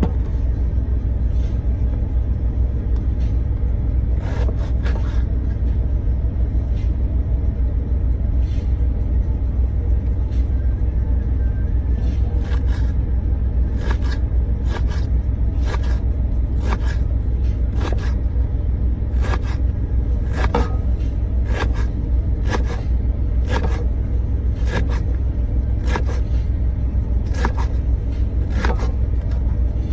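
A truck's engine running with a steady low rumble heard inside the cab. From about twelve seconds in, sharp clicks come at an even pace, a little more than one a second.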